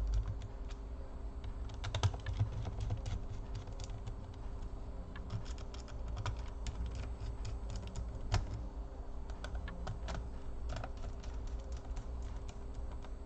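Small screwdriver tightening the keyboard screws on a laptop's base, with light irregular clicks and ticks of the bit and screws against the plastic and metal chassis.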